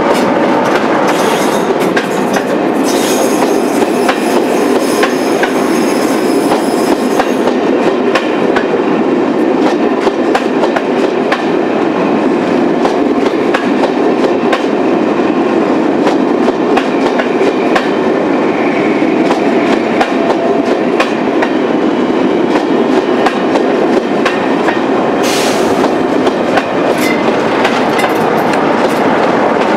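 Loco-hauled passenger train rolling steadily past close by: a Class 47 diesel locomotive, then the coaches' wheels clicking over the rail joints, then the rear Class 47 coming up. A brief high wheel squeal is heard about three seconds in and again near the end.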